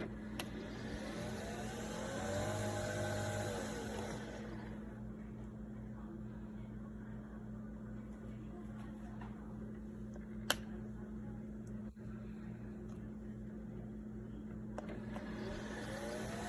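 Nespresso Vertuo Next coffee machine running with a steady hum and a motor whirr that rises and falls about two to four seconds in, then starts up again near the end, with one sharp click partway through. It is a brew attempt on a faulty machine that fails to make coffee.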